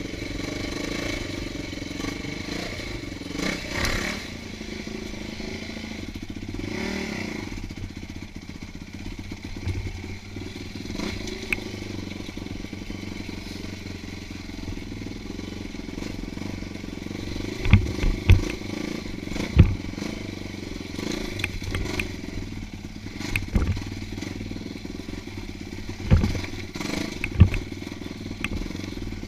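Off-road motorcycle engine running along a trail, with several loud, sharp thumps in the second half.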